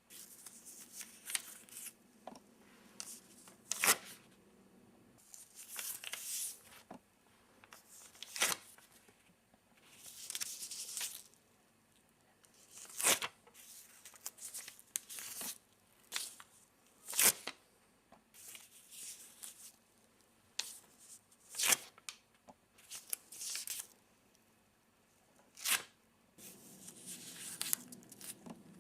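Paper sticky notes being peeled and torn off a pad: a string of short, sharp rips and longer rustling tears coming every second or two at an uneven pace.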